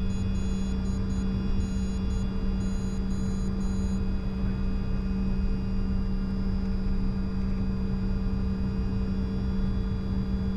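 Steady cockpit hum and drone of a Bombardier Challenger 605 on the ground with its two GE CF34 turbofans idling, a low rumble under several steady tones. Faint high tones switch on and off during the first few seconds.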